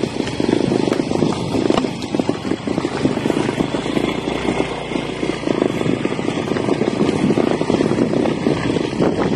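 Motorcycle running steadily on the road, with wind rushing over the microphone.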